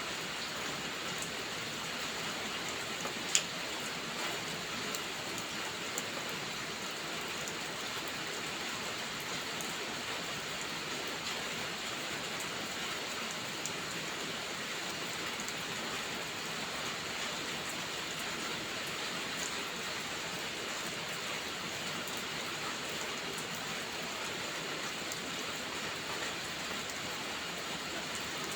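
Steady rainfall, an even hiss of falling rain. A few sharp clicks stand out, the loudest about three seconds in.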